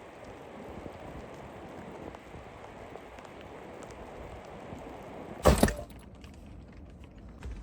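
Steady rain hiss, then one sharp, loud crack about five and a half seconds in, like wood snapping. After the crack the rain sound drops away.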